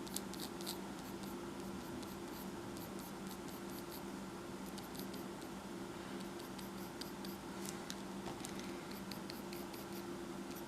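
Pencil strokes scratching on paper in short, irregular strokes, faint over a steady low electrical hum.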